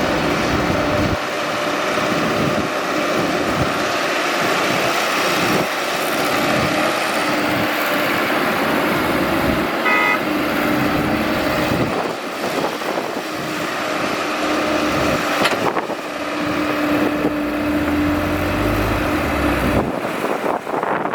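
Excavator's diesel engine running steadily while it digs, with a hum from the machine that rises and falls away several times as the work goes on. A short beep sounds about ten seconds in.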